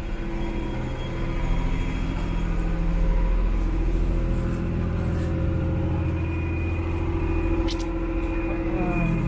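Tour boat's engine running steadily with a low, even hum, heard from on board. A single short click sounds about three-quarters of the way through.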